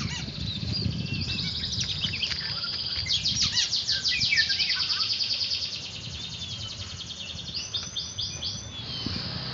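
Oriental magpie-robin (kacer) singing a varied song of sweeping whistles, with a long run of fast repeated notes a few seconds in and a short quick series of notes near the end.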